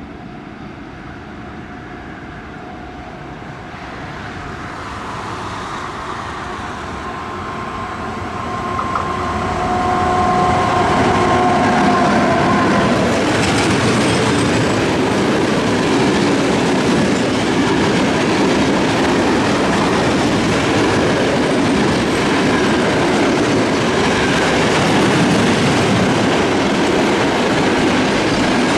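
Electric freight train of grain hopper wagons approaching and passing close by, growing steadily louder over the first ten seconds or so. Then comes the continuous rumble and clatter of the wagons' wheels on the rails as the long train rolls past.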